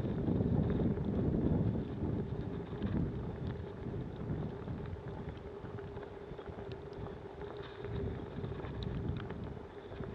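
Snowstorm wind buffeting the microphone as a low rumble, loudest in the first couple of seconds, with a faint steady hum underneath.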